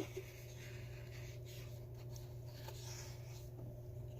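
Faint rustling and rubbing of paper as the pages of a picture book are handled, over a steady low electrical hum.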